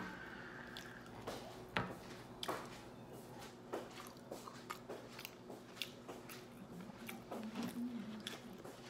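Close-miked mukbang eating sounds: a person chewing seafood-boil food with irregular wet mouth clicks and smacks, over a faint steady hum.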